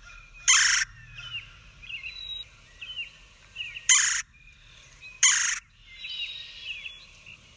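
Red-bellied woodpecker giving its churring call three times, each call short and loud, with fainter bird chirps and gliding notes between.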